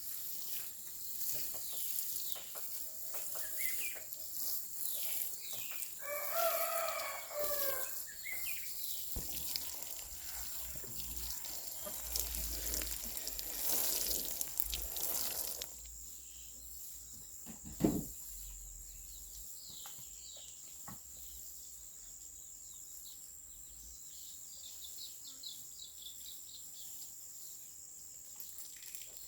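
A rooster crows once, about six seconds in, a call of about two seconds. Small birds chirp later on over a steady high tone, and a single sharp thump comes about two-thirds of the way through.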